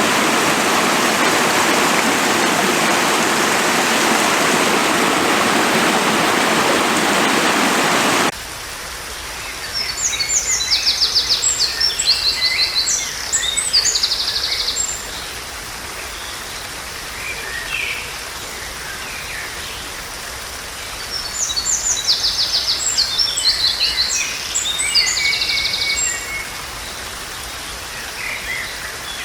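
Rushing stream water, which cuts off abruptly about eight seconds in. Then a songbird sings two long phrases of high trills and chirps, about ten seconds apart, over a quiet outdoor background.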